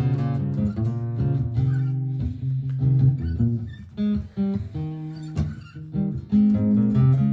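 Martin GPCPA4 steel-string acoustic guitar played through a looper pedal: strummed chords and picked melody notes layered over a repeating looped guitar part.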